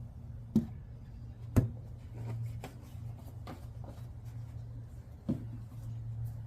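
A few sharp knocks and lighter clicks of objects being handled, the loudest about one and a half seconds in, over a steady low hum.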